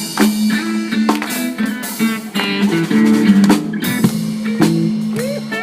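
Live band music without vocals: guitar chords over a drum kit beat.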